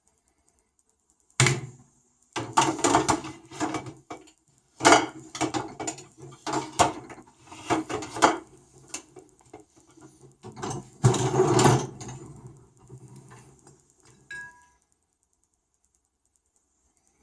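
A benchtop dishwasher being handled: irregular knocks, clicks and rattles for most of the stretch. A short electronic beep comes near the end, then the sounds stop.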